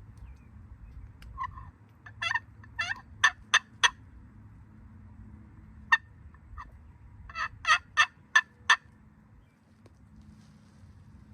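Hand-held friction turkey call worked in two series of yelps of five or six sharp notes each, with a single note between them. The call sounds awfully squeaky because of the damp weather.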